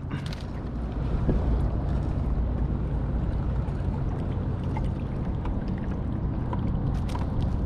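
Steady wind noise on the microphone with water around the kayak, heaviest in the low rumble. A few faint clicks come near the end.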